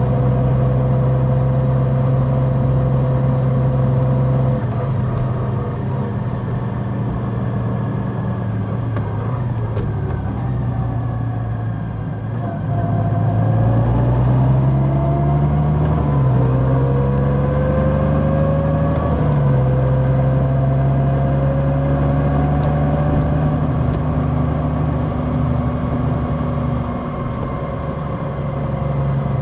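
Large motorcycle's engine running while riding, easing off about four seconds in, then picking up speed again with a rising pitch about halfway through.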